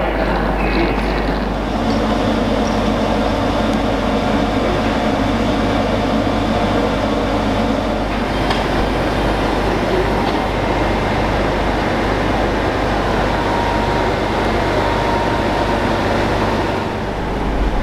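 Steady hum and rumble of passenger trains standing at the platforms of a roofed train shed, with general station noise; the hum changes about halfway through.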